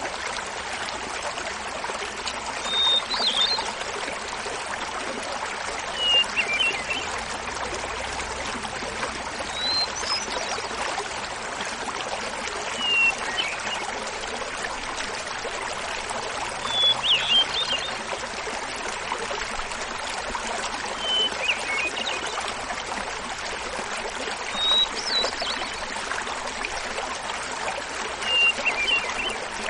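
Small mountain waterfall babbling steadily, with a hermit thrush singing over it. Its song comes in short flute-like phrases about every three to four seconds: a clear opening note, then a quick flutter of higher notes, each phrase at a different pitch.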